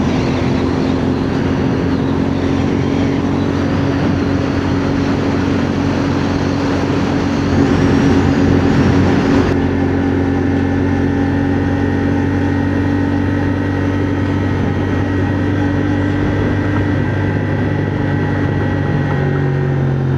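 CFMoto 450NK motorcycle engine running at a steady cruise, with wind rushing over the rider's microphone. About halfway through, a louder rush of noise lasts a couple of seconds.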